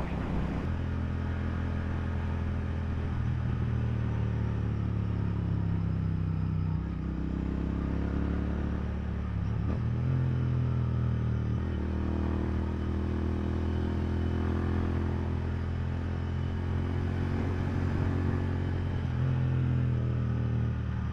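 Motorcycle engine running steadily on the road, with wind and road rush over the microphone; the engine note shifts up and down a few times.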